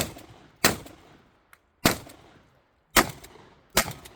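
Shotgun firing five shots at an uneven pace, roughly half a second to a second apart, each shot with a short fading echo.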